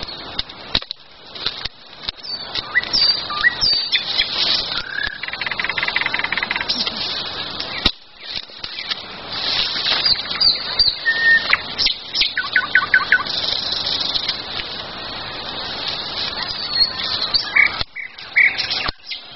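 Wild songbirds singing, with short chirps and trills throughout, over frequent close clicks and rustling.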